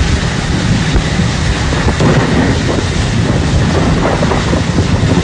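Strong storm wind blowing across a phone microphone: a loud, steady rush of noise with uneven low rumbling gusts.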